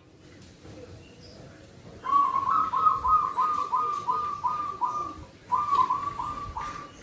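Zebra dove (perkutut) cooing song: a quick series of short, hooked coos, about three a second, starting about two seconds in. After a brief pause a shorter phrase of four coos follows.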